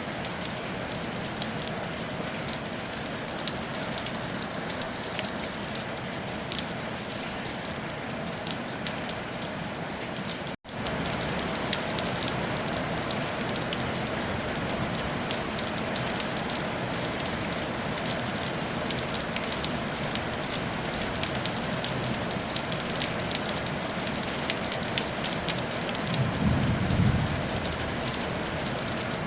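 Steady rain falling on a tile roof, many individual drops ticking over an even hiss. It cuts out for an instant about a third of the way in and resumes slightly louder, and a brief low rumble comes in near the end.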